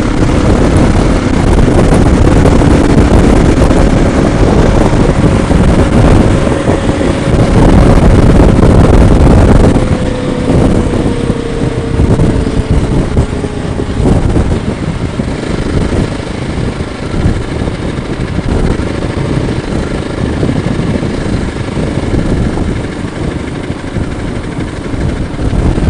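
Motorcycle engine running under way with wind rushing past the microphone. The engine is loudest for the first ten seconds or so, then its note falls and it eases off to a lower, steadier running sound.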